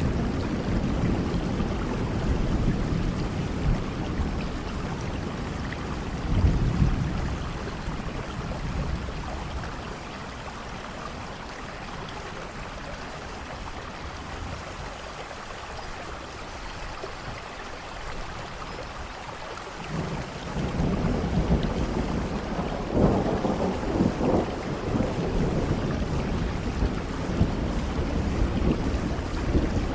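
Steady rain with rolling thunder. Low rumbles die away over the first several seconds, leaving mostly rain. About two-thirds of the way in a new peal of thunder starts suddenly and rumbles on.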